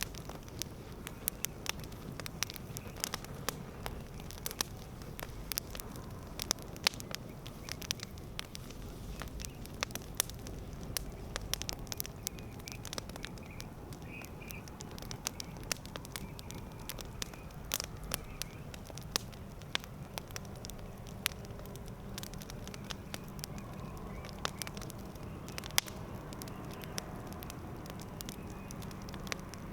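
Wood fire burning, with a steady low hiss and frequent irregular sharp crackles and pops, a few of them louder.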